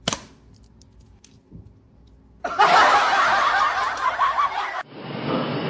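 A sharp click, then near quiet for about two seconds, then people snickering and chuckling in laughter from about two and a half seconds in. An abrupt change near the end brings in a different, muffler-sounding stretch of the same kind of noise.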